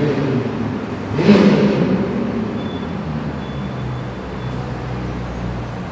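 McLaren 765LT Spider's twin-turbo V8 running, swelling louder briefly about a second in, then settling into a steady low drone.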